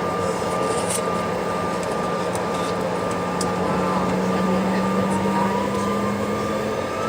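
A Bombardier CRJ-700's rear-mounted General Electric CF34 turbofans heard inside the cabin, running with a steady hum and whine over air noise. Past the middle a rising whine begins as the engines spool up, as for the takeoff roll.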